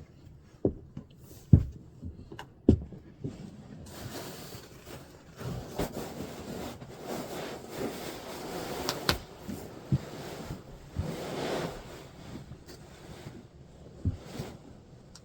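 Close handling sounds: a few dull knocks in the first three seconds, then about eight seconds of rustling with occasional sharp clicks.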